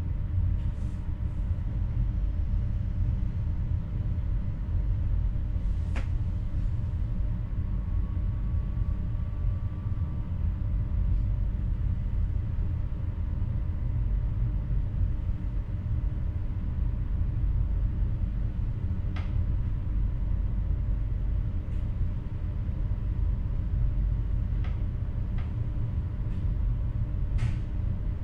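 Steady low rumble and hum inside the driver's cab of an NS electric passenger train, with a few short sharp clicks.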